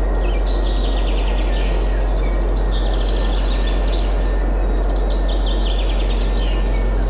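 Forest ambience: several birds singing short, rapid trilling phrases again and again over a steady rush of wind with a deep low rumble.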